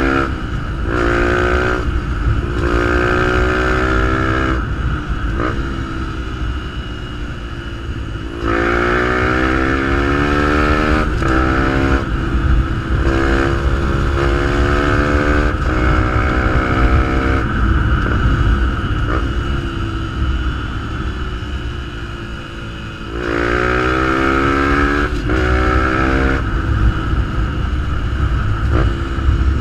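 Fantic 125 supermotard's single-cylinder engine breathing through a GPR aftermarket exhaust, accelerating hard again and again. The revs climb and drop back at each gear change, and it eases off and slows for several seconds about two-thirds of the way through before pulling hard again.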